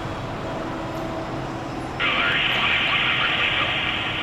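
Fire truck air horn sounding one long, loud blast that starts abruptly about halfway through, over the truck's running engine.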